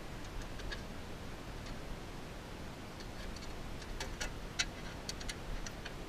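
Irregular light clicks and ticks, a few close together about four to five seconds in, over a faint steady hiss.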